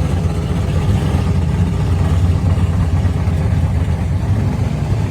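Muscle car engine idling with a steady, deep rumble; it is not being revved.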